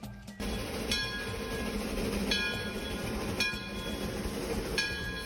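Steam train running on the rails, a steady rumble with a bright ringing note that comes back about every second and a half.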